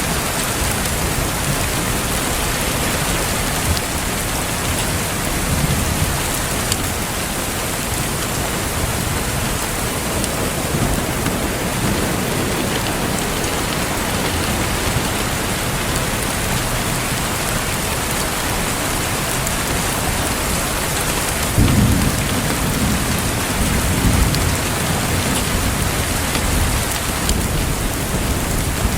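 Steady rain falling, with a few faint fireplace crackles. About two-thirds of the way in, a low roll of thunder starts suddenly and swells again a couple of seconds later.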